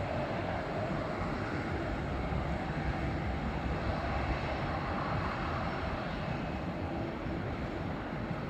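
Jet airliner engines running with a steady rushing noise and a faint tone in it.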